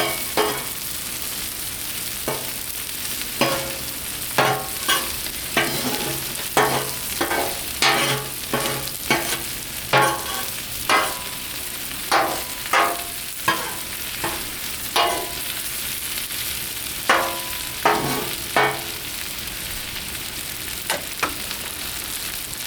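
Potato wedges and vegetables frying in oil on a Blackstone griddle with a steady sizzle, while a spatula repeatedly clanks and scrapes on the steel cooktop as the food is stirred and moved. The clanks come irregularly, about one a second, and die away near the end.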